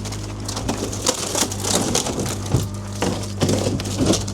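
Wood of a shipping crate cracking and splintering in irregular bursts as it is broken open, over the steady running of an excavator's diesel engine.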